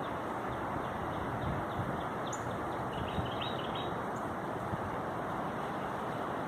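Steady rushing wind, with a small bird chirping in a quick run of short notes about two to three seconds in.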